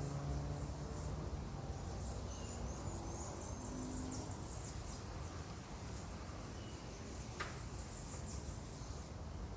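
Faint, high-pitched chirps and twitters over a steady outdoor background noise, with one quick falling whistle about seven seconds in.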